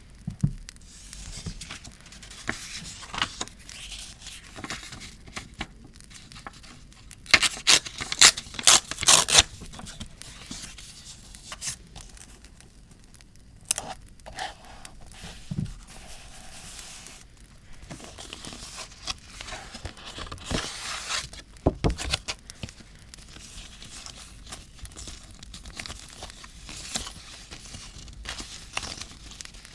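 Paper being handled for scrapbooking: crinkling, scraping and tearing, with a quick run of loud crisp rips about seven to nine seconds in. Under it runs a soft crackle from a campfire sound track.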